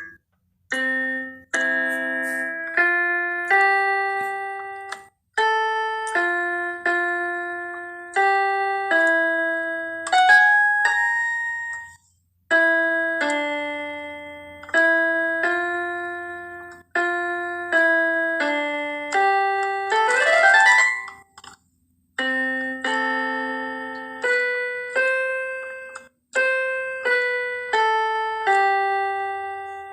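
Keyboard with a piano sound playing a slow instrumental tune in chords, each struck and left to fade, with short breaks between them. A quick rising glissando a little past the middle.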